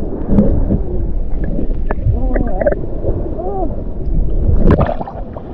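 Water sloshing and rumbling against a snorkeller's camera, muffled and low, with a few faint voice-like sounds in the middle and a sharp knock near the end.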